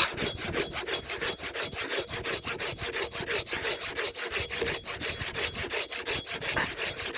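A new, sharp hand saw cutting through a seasoned-free green oak log in quick, even strokes, about five a second, with a rasping sound on each stroke.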